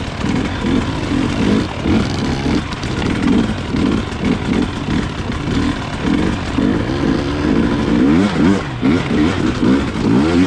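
Dirt bike engine revving up and down over and over, its pitch rising and falling quickly as the throttle is worked.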